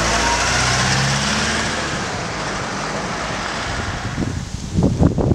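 Diesel multiple unit (a CrossCountry Voyager) running away down the line: a steady rumble of wheels on rail with an engine hum, fading over about four seconds. A few sharp, irregular louder noises follow near the end.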